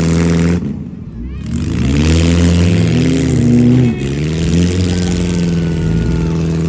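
Demolition derby vehicle's engine revving hard, its pitch repeatedly rising and falling. It drops off sharply a little over half a second in, then climbs again.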